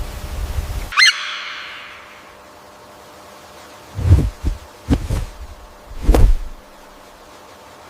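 A steady rushing hiss stops abruptly about a second in and a single sharp, high bird call rings out, echoing briefly. After a pause come three loud, low thumps about a second apart.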